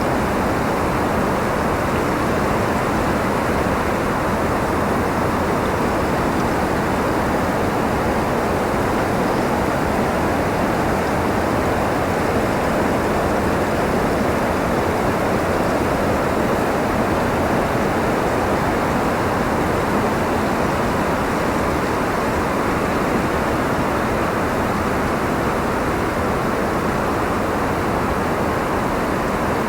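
Steady wind noise: a constant, even rush with no gusts, no rise or fall in strength, and no other sounds.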